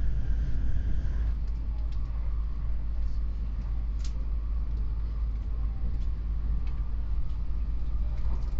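Steady low rumble of an N700S Shinkansen train running at speed, heard inside a passenger car, with a few faint clicks.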